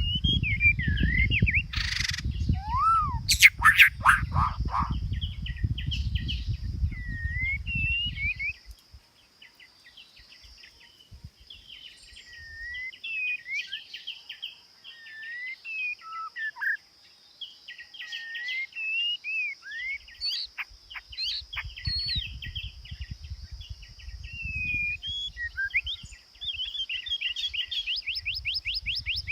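A songbird singing a long run of varied whistled phrases, ending in a fast trill of rising notes. A steady high hiss runs under the song, and a low rumble comes and goes.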